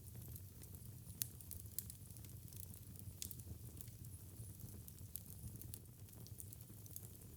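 Fire burning in a fireplace and crackling: scattered sharp pops, a stronger one about a second in, over a faint steady low rumble.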